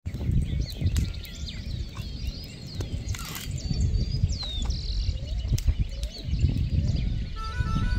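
Birds chirping in short rising and falling calls over a steady low rumble, with a few scattered clicks; music comes in near the end.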